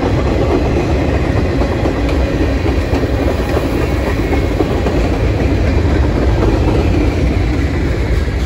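Mixed freight train cars (tank cars, boxcars and refrigerator cars) rolling past close by: a steady, loud rumble of steel wheels on the rails.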